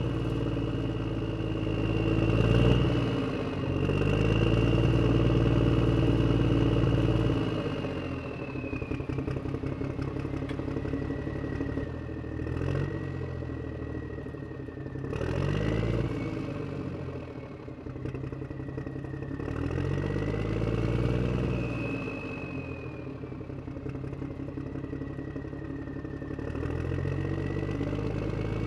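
Electric drive motors and gearboxes of a HuiNa RC toy wheel loader whining, the pitch rising and falling as it speeds up and slows, with occasional clattering.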